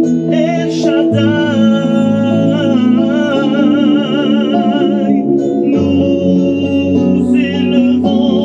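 A hymn being sung: a singer holds long notes with vibrato over instrumental accompaniment, and the bass note changes about a second in and again near the sixth second.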